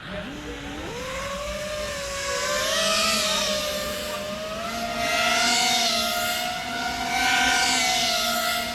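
FPV racing quadcopter's brushless motors and propellers spooling up with a quickly rising whine, then whining in flight, the pitch wavering and swelling as the throttle changes.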